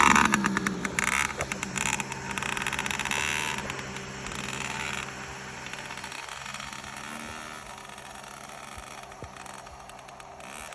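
A dirt bike engine, loud and close at first, fading over the next few seconds as the bike rides away and leaving a quieter, steady engine sound.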